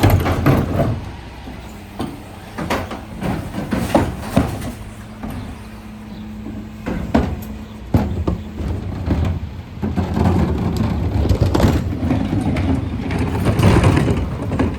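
Refuse truck at work with its engine running: a steady hum under a series of sharp metallic knocks and bangs from bins on the rear lifter. From about ten seconds in, a louder, denser rush of mechanical noise sets in.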